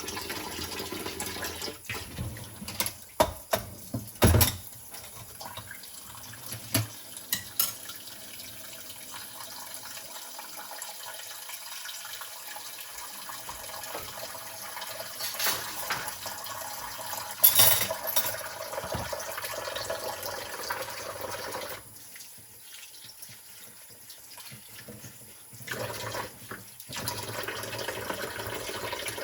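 Tap water running into a kitchen sink while dishes are washed by hand, with scattered clinks and knocks of dishes against each other and the sink. The running water drops away for a few seconds about three quarters of the way through, then comes back.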